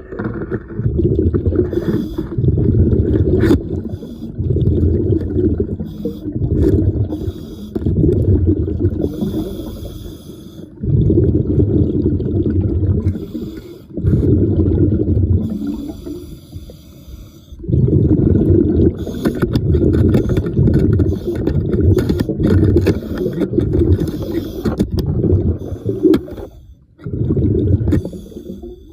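A diver breathing underwater through a regulator: rough, bubbling breaths in repeated bursts about a second or two long, with short pauses between them.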